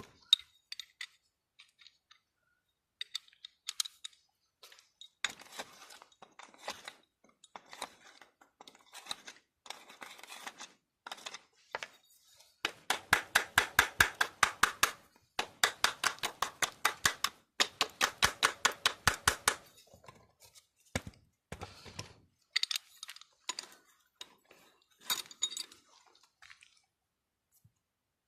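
Metal hand-tool work: scattered sharp clicks and taps, with two loud runs of rapid, evenly spaced clicks, about ten a second, in the middle.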